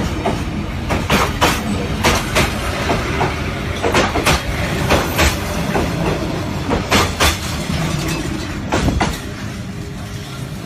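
Passenger train running on the rails, its wheels clacking over rail joints in quick pairs every second or two above a steady rumble. The rumble drops slightly about nine seconds in.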